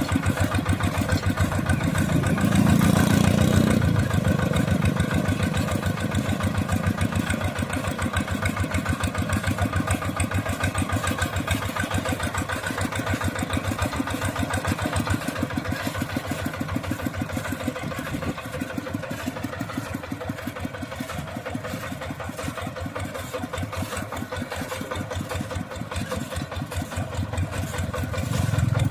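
Mini tractor's engine running with a fast, even chugging beat, getting louder for a couple of seconds near the start and again briefly near the end.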